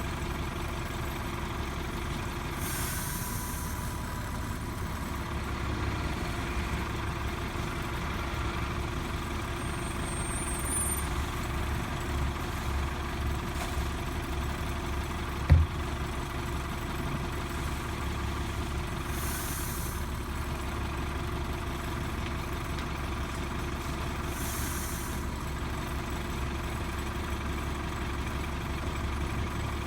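Heil Multi Pack rear-loader garbage truck's engine running steadily, with a few short hisses and one sharp thump about halfway through.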